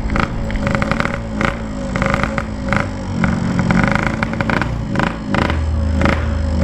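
Motorcycle engine running while riding over a rough, bumpy road, its note rising and falling with the throttle, with repeated knocks and rattles from the bumps.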